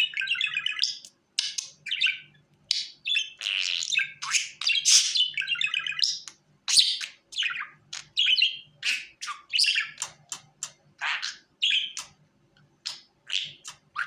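Budgerigar chirping and warbling: a quick, continuous run of short squeaky calls and chatter with brief pauses between them.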